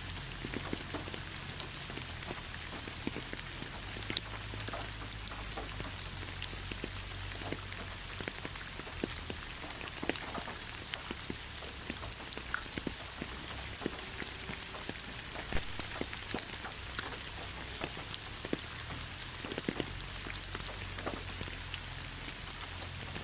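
Steady rain falling, with many individual drops ticking and pattering on a surface over a constant hiss.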